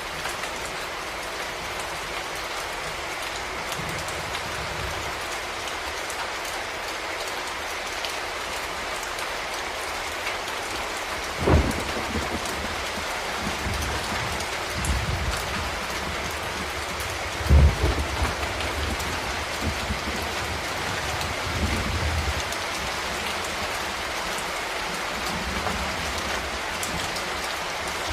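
Steady rain falling, with a few low rumbles of thunder; the two loudest come near the middle, a few seconds apart.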